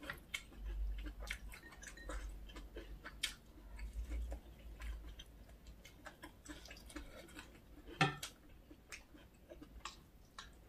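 Close-miked eating: chewing spicy noodles and chewy canned whelk, a run of small irregular mouth clicks and smacks, with one louder click about eight seconds in.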